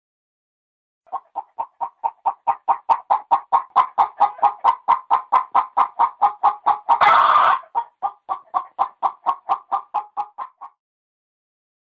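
Hen clucking rapidly and evenly, about four clucks a second, with one longer squawk about seven seconds in.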